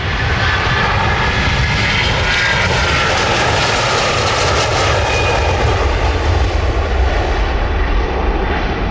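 Jet airliner's engines passing close by: a loud rushing roar whose hiss swells to a peak midway, then fades as a whine slides down in pitch.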